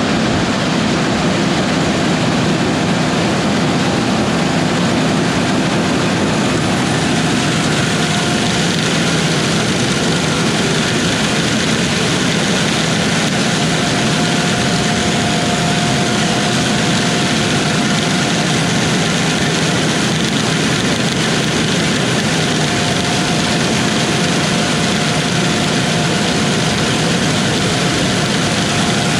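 Combine harvester running steadily, its engine and machinery a dense, even noise, with a faint high whine that comes and goes.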